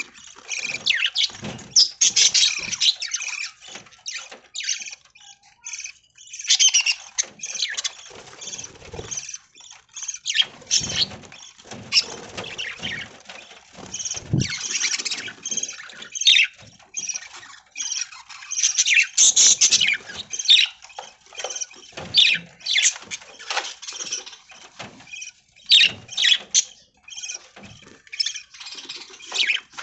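A flock of budgerigars chirping and chattering continuously, with busy, overlapping warbles and squawks.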